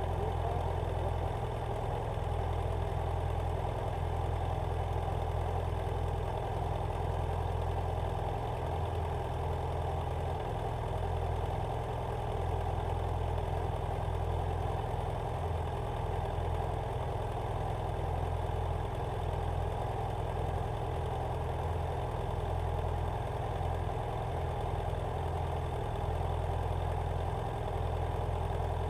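BMW F800GS motorcycle's parallel-twin engine running steadily, with no change in pitch or level.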